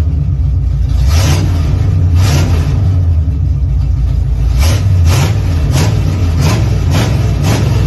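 Truck engine running, freshly caught after a long hard crank, revved in short surges as the gas pedal is pumped: about eight blips, most of them in the second half.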